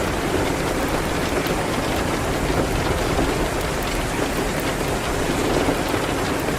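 Steady rain falling on a window: an even hiss with a few faint sharp ticks scattered through it.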